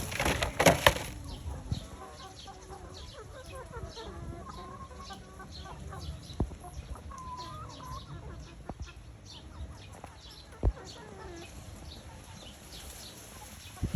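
Chickens clucking, with many short calls going on throughout. A loud noisy burst comes in the first second, and there are a couple of sharp knocks later.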